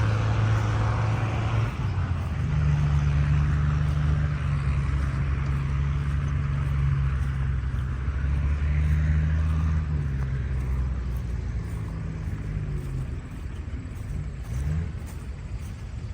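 A large engine running with a low steady note. It shifts pitch and gets a little louder a couple of seconds in, then fades away over the last few seconds.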